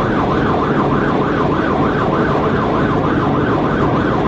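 Police siren in fast yelp mode, its pitch rising and falling about three times a second without a break, over steady road and engine noise from a vehicle moving at highway speed.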